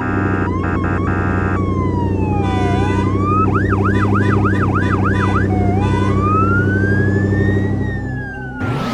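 Cartoon siren sound effect: a siren wails down and up, switches to a fast yelp for about two seconds, then wails slowly up and down again, all over a steady engine hum. A few horn honks come at the start, and a rising whoosh comes near the end.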